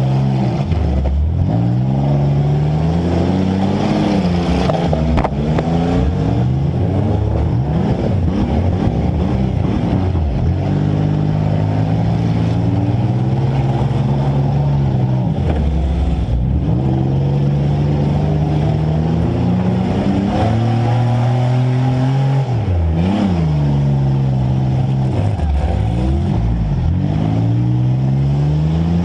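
Compact demolition derby car's engine, heard close up from the car itself, revving hard and easing off over and over, with a few sharp knocks of metal contact along the way.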